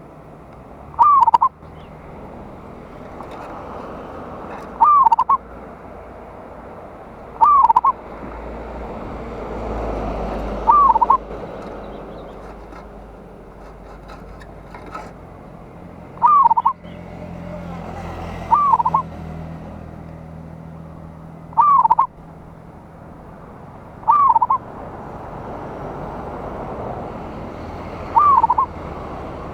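Zebra dove (perkutut) calling: nine short, loud calls, each a quick pair of notes, repeated every few seconds over faint background noise.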